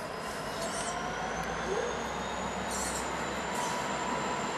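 NR class diesel-electric locomotive pulling a heavy steel train slowly away from a stand, its engine running steadily under load with a thin whine that climbs slowly in pitch as it gathers speed. A few short, high squeaks come in over the top.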